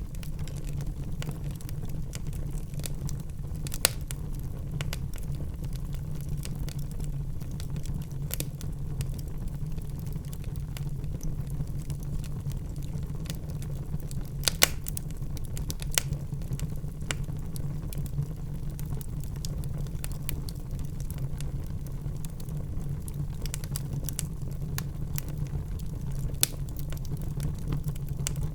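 Wood fire burning in a fireplace: irregular sharp crackles and pops over a steady low rumble of the flames, with a handful of louder pops.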